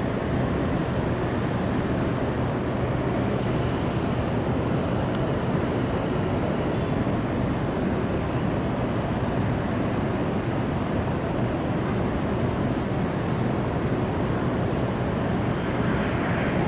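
Steady jet aircraft engine noise, an even rush with a faint low hum underneath that neither rises nor falls.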